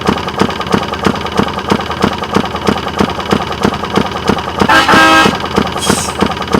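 Rail motorcar's engine running with an even putting beat of about four strokes a second, and its horn sounding once for about half a second around five seconds in.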